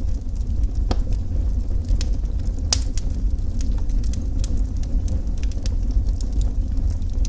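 Wood fire crackling, with frequent sharp pops and snaps over a steady low roar; the loudest pop comes a little under three seconds in.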